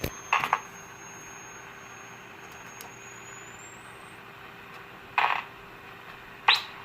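Tube radio speaker hissing with static while being tuned. A thin, high heterodyne whistle holds steady, then rises in pitch and cuts off about four seconds in, as the set picks up the other radio's signal. A few short crackles of static break in, near the start and twice near the end.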